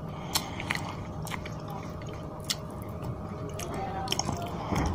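Close-up chewing and wet mouth clicks of a person eating rice and fish curry by hand, coming as irregular sharp clicks over a steady low hum. Fingers work the rice and curry in the plate near the end.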